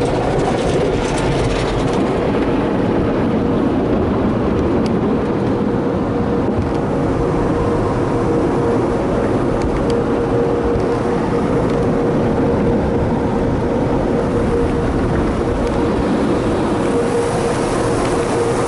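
Tunnel car wash machinery running, heard from inside the car on the conveyor: a loud steady rush with a constant hum, the hiss growing brighter near the end.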